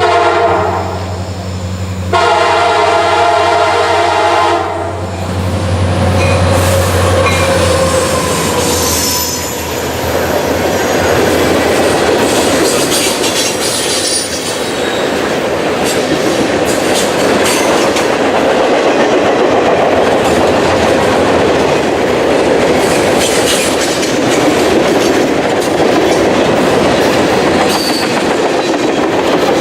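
Diesel freight locomotive's air horn sounding twice, a short blast then one of about three seconds, over its running engine. Then the steady rumble and clatter of freight cars rolling past on the rails.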